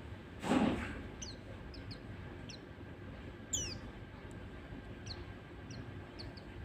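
White-eyes (pleci) giving short, sharply falling high chirp calls, scattered irregularly, with one louder double chirp about three and a half seconds in. A short burst of noise comes about half a second in.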